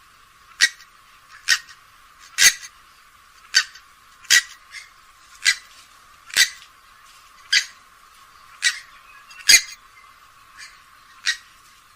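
Grey-headed swamphen giving a series of short, sharp calls, about one a second, some louder than others, with little low end so they sound thin.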